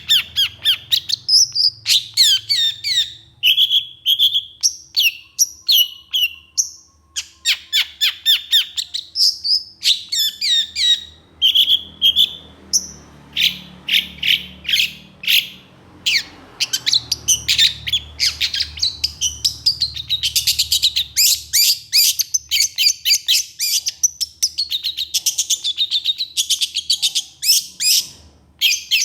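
Long-tailed shrike (cendet) calling in a fast, unbroken string of harsh, sharp notes, several a second, mixed with short chirps and brief rising and falling whistles.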